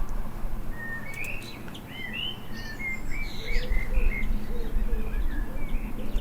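Small garden birds chirping: a busy run of short, quick chirps over a low, steady rumble.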